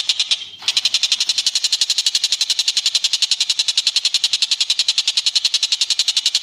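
A bird's rapid, even trill of about twelve notes a second, high-pitched, running on with a short break just after the start.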